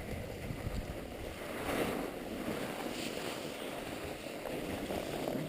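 Skis sliding and scraping over packed snow in a steady hiss, with wind rushing over the microphone, swelling briefly about two and three seconds in.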